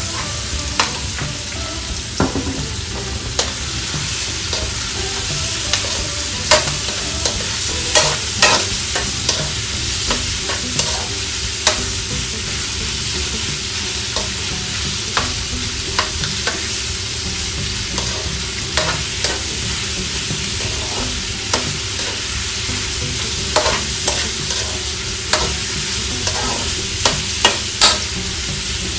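Diced pork frying in a hot metal wok, a steady sizzle, while a spatula stirs it and clicks and scrapes against the pan at irregular moments.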